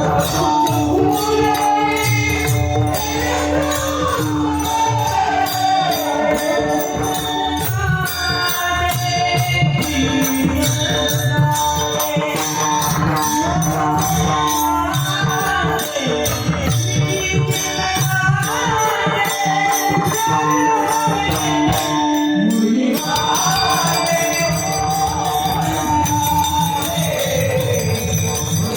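A male voice singing a Marathi gavlan devotional song in a sliding melody over a steady held drone, with rhythmic jingling percussion keeping a regular beat throughout.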